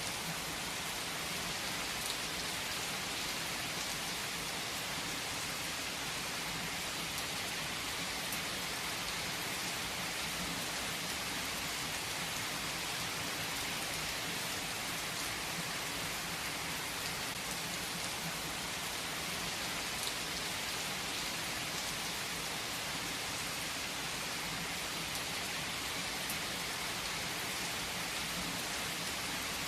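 Steady rain falling on a hard surface: an even hiss of many drops with scattered individual drop ticks.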